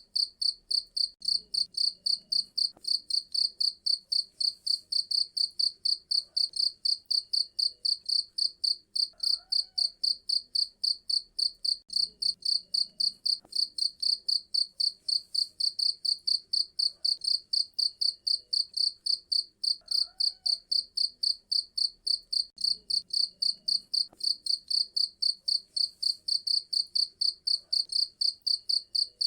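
Cricket chirping in a fast, even rhythm of about four high-pitched chirps a second, steady throughout.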